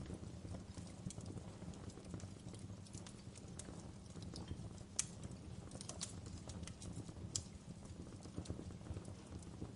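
Fireplace crackling: a low, steady rumble of burning logs with irregular sharp snaps and pops, the loudest about halfway through.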